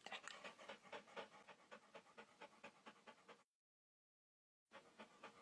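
A dog panting faintly and rhythmically, about four to five breaths a second, fading away, then cut off by a second of dead silence.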